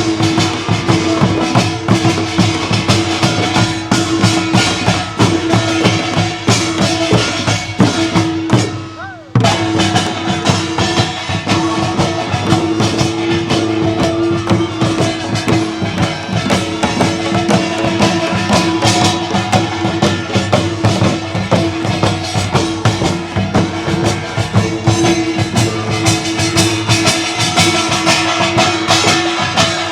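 Korean traditional folk music: dense, rhythmic drumming and other percussion under a held melodic line. The sound briefly drops away about nine seconds in, then carries on.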